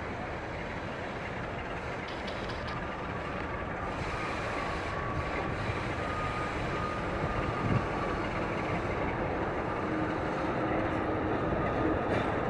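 A train approaching, its rumble growing steadily louder, with a thin high steady whine joining about three seconds in.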